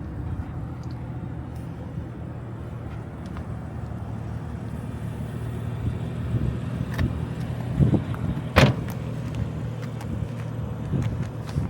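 2014 BMW 435i's turbocharged 3.0-litre straight-six running steadily with a low hum, growing a little louder past the middle. A few sharp knocks come around seven to nine seconds in, the loudest last.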